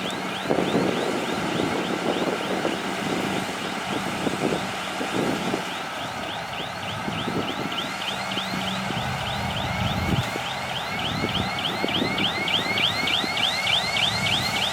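Shantui crawler bulldozer working, its diesel running under a steady train of high squeaks from the steel tracks, about four a second and quickening slightly near the end, with irregular low knocks.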